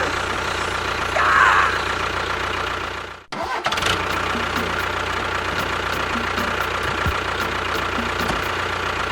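Steady tractor engine sound running, cutting out for an instant a little over three seconds in and picking up again.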